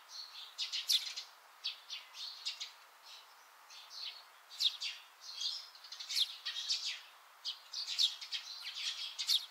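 Small birds chirping: a busy run of short, high chirps, several a second, with brief pauses between clusters.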